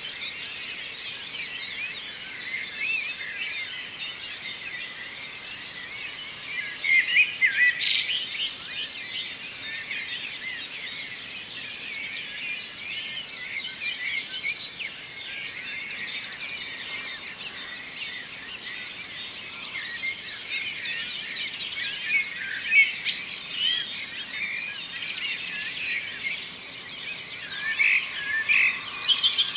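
Morning dawn chorus: many songbirds singing and chirping at once in a dense, overlapping tangle of short high calls. A few louder calls come close by about seven seconds in and again near the end.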